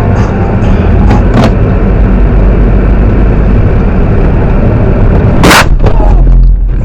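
Loud, steady low rumble of road and engine noise from a moving car, picked up by a dashcam microphone. A sharp thump comes about five and a half seconds in, with a fainter one after about a second and a half.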